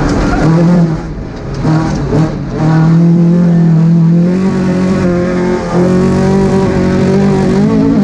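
Two-wheel-drive rally car's engine at full effort, heard from inside the cabin. It eases and picks up again about one to two and a half seconds in, then holds high revs steadily, with a brief break near six seconds.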